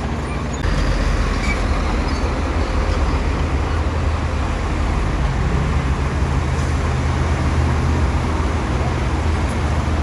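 Bulldozer diesel engine running steadily under load with a low rumble, getting louder about half a second in.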